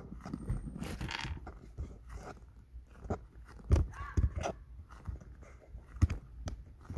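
Crunchy chewing and biting: irregular sharp crunches and clicks as something hard is bitten and chewed, a few of them louder than the rest.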